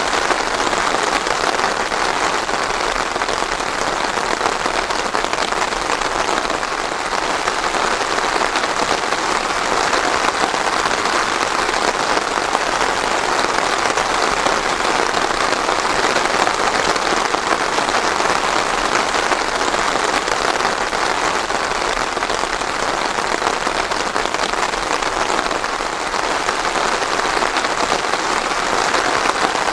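Steady, even rain falling on a surface, without thunder.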